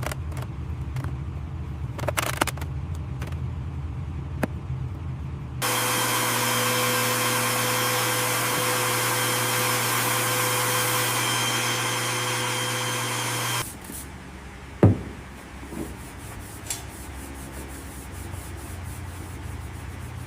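A power tool runs steadily for about eight seconds in the middle, then cuts off suddenly, on work stripping rust from a car's floor pan. Around it are a low hum, scattered knocks and scrapes, and one sharp knock shortly after the tool stops.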